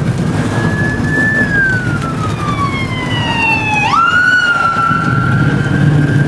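An emergency vehicle's siren wailing: one tone that falls slowly, jumps back up about four seconds in and then holds, over the steady low drone of road noise from the moving truck.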